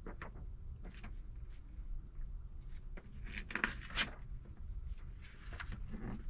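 Scattered light knocks and clicks of things being handled, over a low steady hum. The loudest pair comes a little past the middle.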